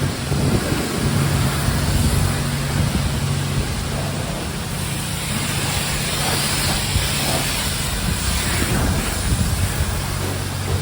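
Pressure washer spraying water onto a greasy engine: a steady hiss of spray over a low machine hum, the spray growing brighter for a few seconds about halfway through.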